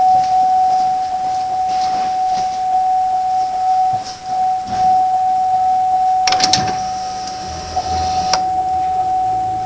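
Car ignition switched on just before a cold start: a steady high-pitched tone, then about six seconds in a click and roughly two seconds of a whirring hiss that ends with another click, with a faint low hum after it.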